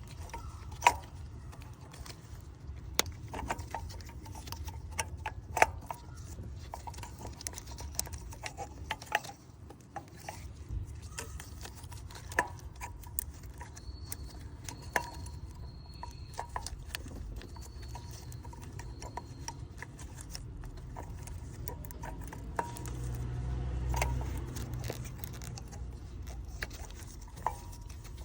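Scattered metallic clinks and taps of hand tools and parts being handled during engine work, over a low steady rumble that swells briefly a little past the middle.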